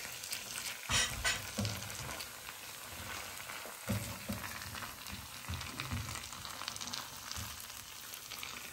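Onion and tomato paste frying in sunflower oil in a skillet: a steady sizzle, with a few knocks against the pan, the loudest about a second in.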